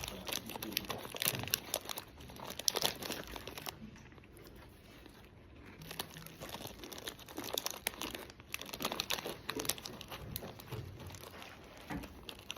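Snack bag crinkling and rustling in irregular handfuls of crackles, easing off for a couple of seconds near the middle.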